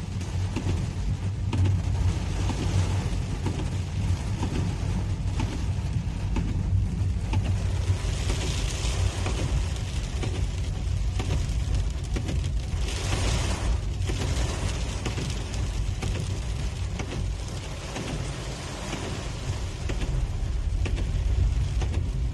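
Rain hitting the car's windows and roof, heard from inside the moving car over a steady low rumble of engine and road noise, with a brief louder hiss about thirteen seconds in.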